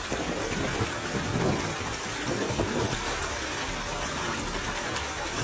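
Steady rush of a fast-flowing forest stream.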